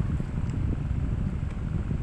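Steady low rumble of air buffeting the microphone, with a few faint light clicks above it.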